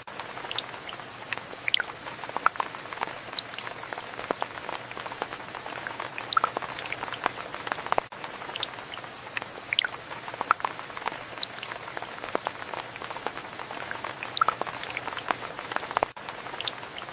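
Steady rain with many irregular drops pattering and dripping onto surfaces. The sound cuts out for an instant twice.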